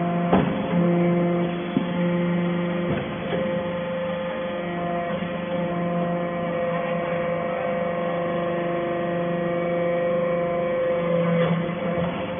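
Steel shaving baler running with a steady electric hum, its tone shifting slightly a few times as the load changes. A few light knocks come through, one a little under a second in, two more about two and three seconds in, and one near the end.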